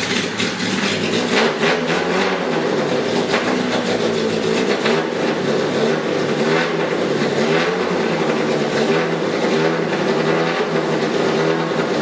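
Fiat 127 four-cylinder engine running just after its first start, the revs rising and falling unevenly.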